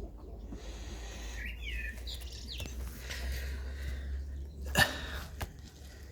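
Young pigeons in the nest giving a few short squeaky peeps about one and a half to two and a half seconds in. A sharp knock follows a little before five seconds in, over a low steady hum.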